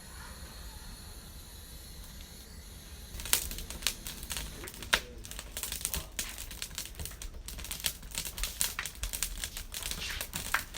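Wood campfire crackling and popping: sharp irregular snaps start about three seconds in and come thick and uneven after that.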